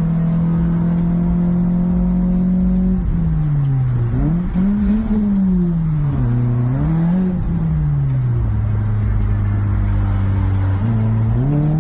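Car engine heard from inside the cabin while driving, over low road rumble. Its note holds steady, drops, then rises and falls twice as the car speeds up and eases off, holds low, and climbs again near the end.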